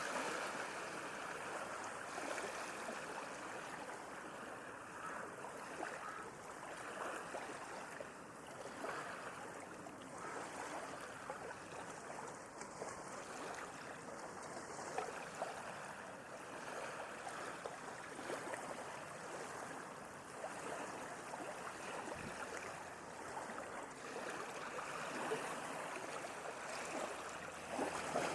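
Sea waves washing gently on a shore: a steady wash of water with many small splashes, swelling and easing only slightly.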